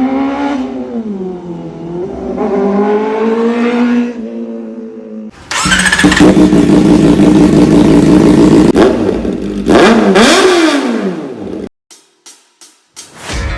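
Kawasaki ZX-4RR's inline-four with an open Austin Racing shorty exhaust, revving: engine speed rising and falling, then a much louder high-rev run that falls away about eleven seconds in, followed by a few sharp cracks.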